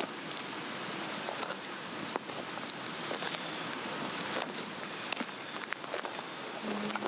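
A Swedish torch, an upright cedar log with a cross cut into it, burning: a steady hiss of flame with frequent sharp crackles and pops.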